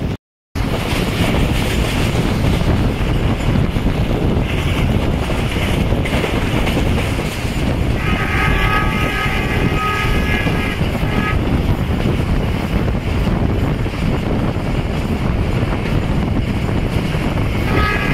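Fast-running passenger train heard from an open coach window: steady wheel and track rumble with wind buffeting. The ZCU-30 diesel locomotive's air horn, several tones at once, sounds about eight seconds in for roughly three seconds and starts again right at the end. A momentary dropout comes at the very start.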